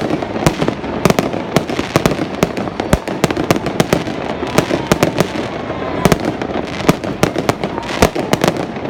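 Fireworks going off: a rapid, irregular barrage of sharp bangs, several a second, over a constant crackle.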